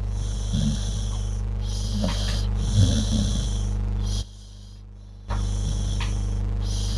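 A sleeping dog snoring and snorting, with a short break a little over halfway through.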